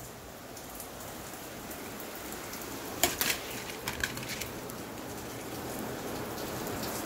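Hard rain falling steadily on a corrugated roof, the hiss growing slightly louder. A few sharp clicks about three and four seconds in.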